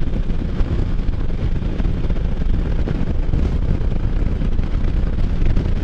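Can-Am Spyder F3 engine running steadily under way, heard through wind buffeting on a helmet microphone as a constant low rumble.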